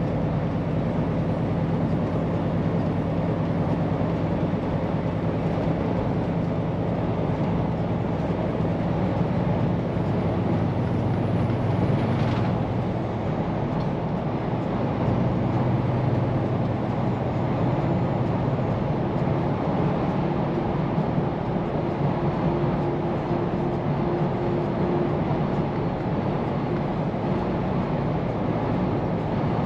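Scania P410 truck's diesel engine and road noise heard from inside the cab while driving: a steady drone whose engine tones shift a little in pitch partway through. There is a brief faint click about twelve seconds in.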